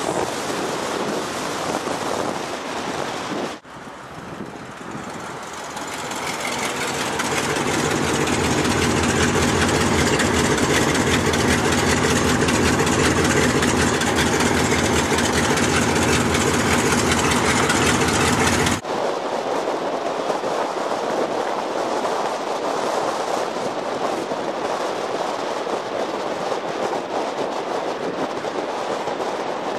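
Ford Mustang Mach 1's Cobra Jet big-block V8 running, heard close up: after a few seconds the engine note builds and then holds loud and steady with a low rumble. Partway through it cuts off abruptly, and the car is then heard quieter, driving in street traffic.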